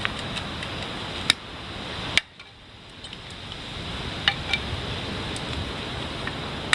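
A few sharp clicks and clinks, such as cooking utensils being handled, over a steady outdoor hiss. The background cuts off abruptly about two seconds in and then slowly rises again.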